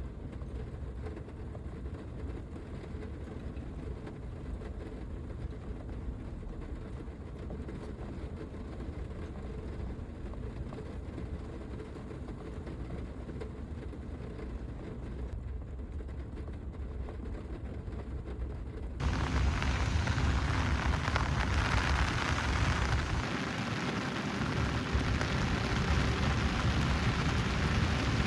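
Heavy typhoon rain drumming on a van's roof, heard from inside the cabin as a steady low rumble. About 19 seconds in it switches abruptly to a louder, brighter rush of downpour.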